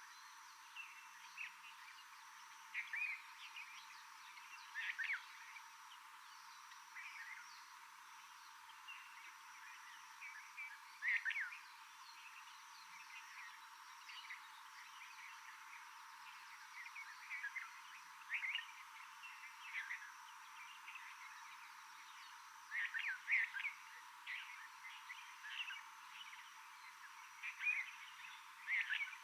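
Short high chirping calls from forest animals, singly and in quick clusters every few seconds, over a steady faint hiss.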